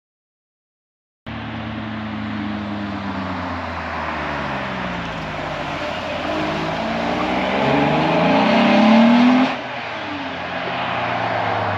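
Car engine pulling hard under acceleration, starting abruptly after about a second of silence; its pitch climbs and falls through the gears, then drops sharply as it lifts off near the end.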